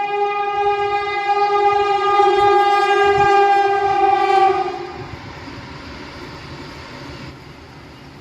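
Vande Bharat Express train horn sounding one long, steady blast that cuts off about four and a half seconds in, followed by the steady running noise of the train.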